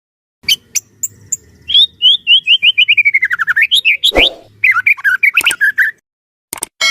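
White-rumped shama (murai batu) singing loudly: a few sharp notes, then a fast run of short whistled notes stepping down in pitch, followed by varied rising and falling phrases that stop about a second before the end. This is the full, energetic 'gacor' song used to provoke other shamas into singing.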